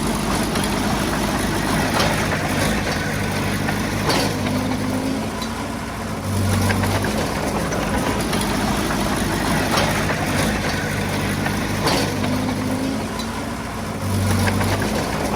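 Heavy-equipment diesel engine running steadily, its note swelling and easing a couple of times as the load changes, with several sharp knocks or clanks over it.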